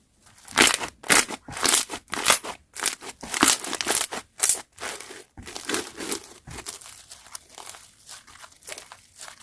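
Slime being squeezed and worked by hand, a quick run of short wet, crackly squishes about two to three a second, louder for the first half and softer after about five seconds.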